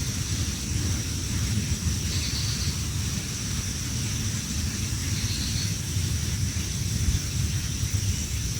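Low, uneven rumble of wind buffeting the microphone under a steady high hiss, with a short high chirp twice, about three seconds apart.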